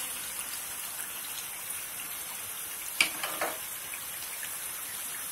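Chicken pieces sizzling in a pan of thick, oily masala as they are stirred with a wooden spatula, a steady fine crackle: the meat fried down at the end of the kosha (bhuna) stage. Two short knocks about three seconds in.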